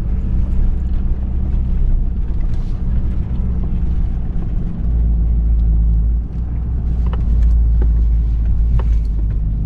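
Engine of a four-wheel-drive vehicle running as it drives over soft, mushy ground, a steady low rumble that swells about five seconds in.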